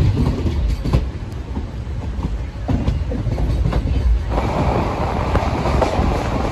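Sleeper-class coach of an Indian Railways express running along the track, heard from its open door: a steady rumble with clicks of the wheels over rail joints. About four seconds in, a louder rushing noise joins.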